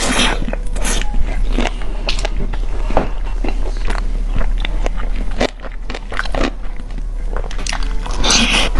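Fried chicken being bitten and chewed close to the microphone, with crisp, crackly crunches. The loudest crunches come right at the start and again near the end.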